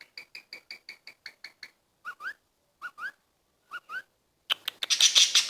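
Pet parrot chirping: a quick even run of about eight short chirps, then three pairs of short rising whistled chirps. Near the end a louder rapid clicking starts.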